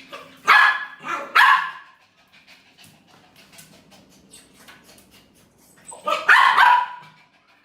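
Dog barking: two loud barks in the first two seconds, then another loud bark or two near the end.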